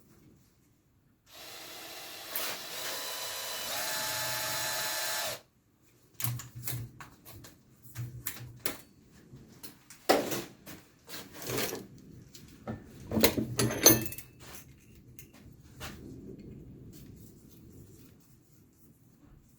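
A vacuum-driven, 3D-printed turbine duster running: a steady whir with whining tones that grows louder about a second in and cuts off abruptly after about four seconds. Irregular plastic clicks and knocks follow.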